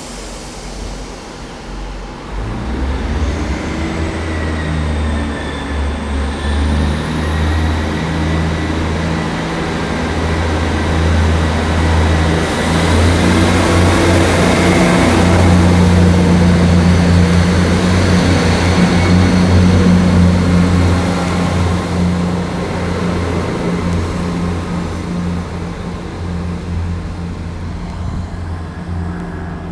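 Diesel multiple unit's engines working under power, with a steady low engine note and a high whine that steps up in pitch twice. It builds to its loudest about halfway through, then slowly fades.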